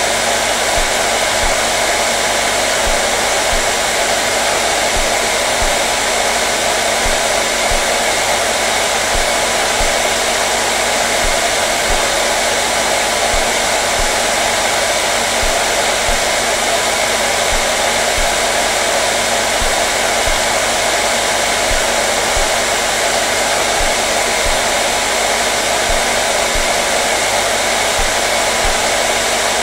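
Electric hair dryer running steadily: an even, unbroken rush of air with a faint motor hum underneath.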